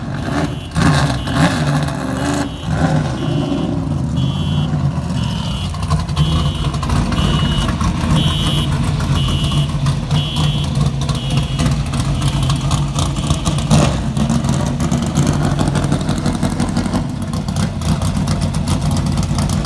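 A vehicle engine running steadily, with a high electronic beep repeating about once a second that stops about twelve seconds in, and a few knocks near the start.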